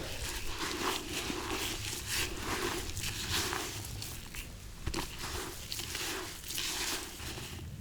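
Hands mixing and kneading dry, crumbly fishing groundbait in a bucket: a run of repeated scrunching strokes, one to two a second.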